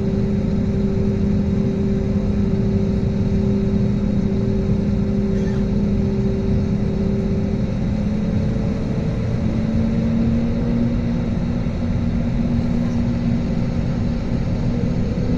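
Jet airliner engines heard from inside the passenger cabin: a steady deep rumble with a humming drone, whose pitch steps up slightly a little past halfway through.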